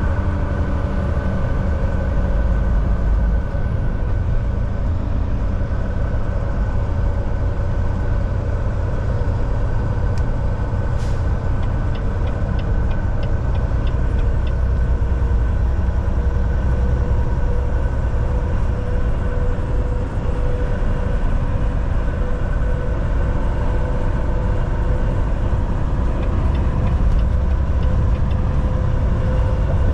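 Volvo VNL 760 semi truck cruising at highway speed: a steady engine drone over a heavy road rumble. About a third of the way through there is one sharp click, followed by a short run of faint ticks.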